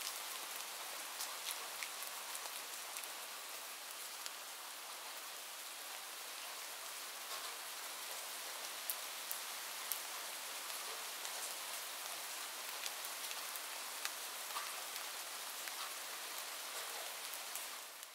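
Steady rain falling, with scattered single drops ticking through it; it fades out at the end.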